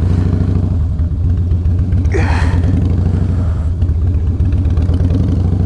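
Harley-Davidson V-twin engine running at low revs with a steady, pulsing rumble as the motorcycle creeps through a slow-speed cone drill. A brief breathy vocal sound comes about two seconds in.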